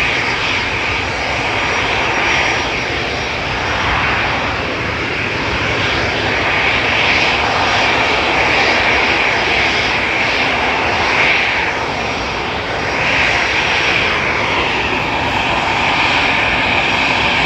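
Jet airliner's engines, a loud steady rush of noise with its strongest part high in pitch.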